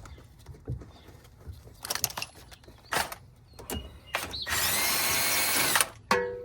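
A few sharp metal clinks, then a handheld power tool runs steadily for about a second and a half and stops abruptly.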